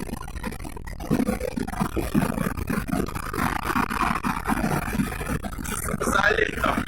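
Lada Priora's 1.6-litre 16-valve VAZ-21126 engine and road noise heard from inside the cabin while driving; the car runs a chip-tuned map with an insert in place of the catalytic converter.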